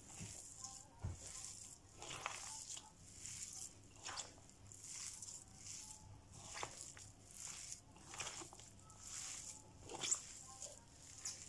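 Faint, irregular strokes of broccoli vorta being mixed, the mashed broccoli, chili and fish worked together, about one or two soft strokes a second.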